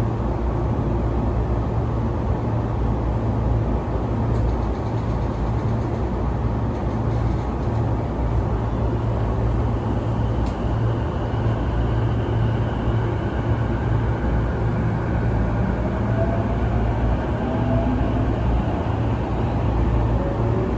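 Sotetsu 12000 series electric train running, a steady low rumble of wheels and running gear. In the second half a motor whine comes in and climbs slowly in pitch.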